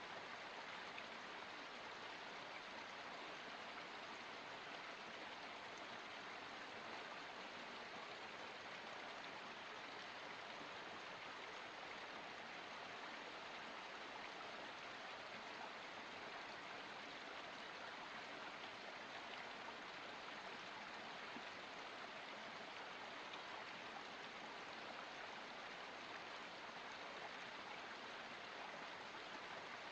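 Water of a forest spring flowing steadily: an even, soft rushing with no breaks or changes.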